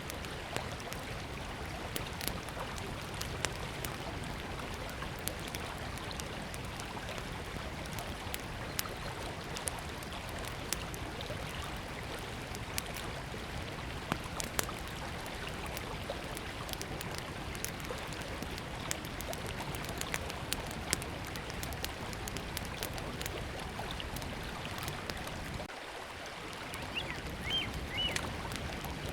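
Small wood campfire crackling with scattered sharp pops over the steady rush of a river. A bird chirps a few times near the end.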